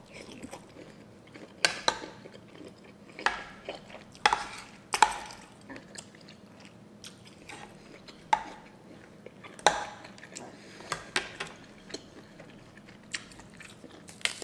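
A person chewing a mouthful of seafood and shredded green papaya salad close to the microphone, with crisp, wet crunches and mouth smacks at irregular intervals, and now and then a metal spoon or fork clinking on the ceramic dish.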